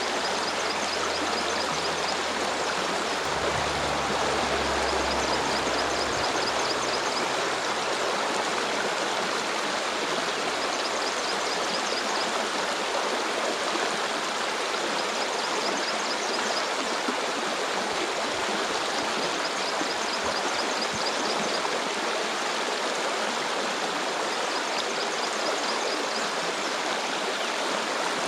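Stream water flowing and rushing steadily, with a short high trill repeating every few seconds above it.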